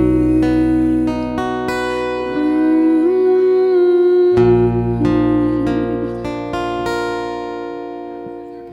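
Live acoustic guitar strumming chords, with a held, wavering melody line above them. It fades down over the last few seconds.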